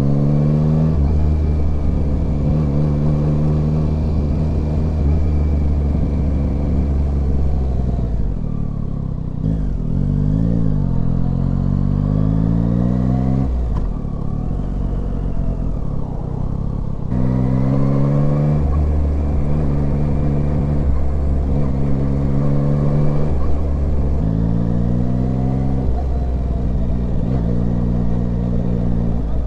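Yamaha Tracer 9's three-cylinder engine under way, its pitch climbing as it pulls through the gears and dropping back at each shift, over a steady rush of wind. About halfway through, the throttle eases off for a few seconds before the engine pulls hard again.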